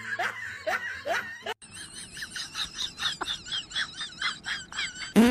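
A person laughing in short falling bursts, then, after a brief break, a fast run of short high warbling sounds, about four a second.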